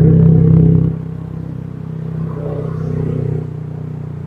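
Motorcycle engine running under throttle, loud for about the first second, then easing off to a steady lower hum.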